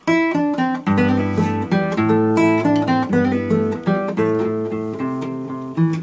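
Solo acoustic guitar starting suddenly on the instrumental introduction to a chorrillera, a Patagonian folk song form: a quick melody of plucked notes over sustained bass notes.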